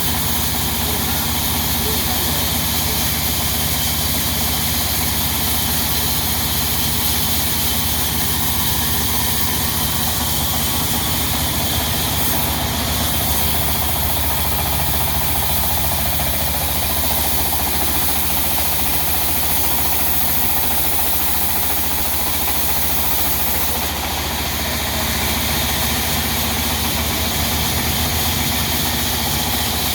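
Diesel engine driving a sawmill, running steadily with a constant low drone and a hiss over it.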